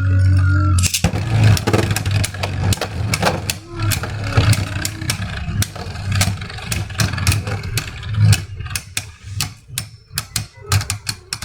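Beyblade spinning tops, one of them 3D-printed, landing in a plastic stadium about a second in, then spinning with a low hum and clashing in rapid clacks and rattles. The hits grow sparser near the end as the battle winds down.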